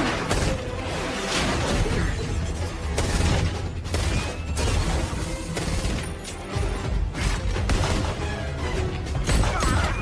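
Film action soundtrack: score music under a string of crashes, smashes and impacts, with whooshes, typical of a battle sequence.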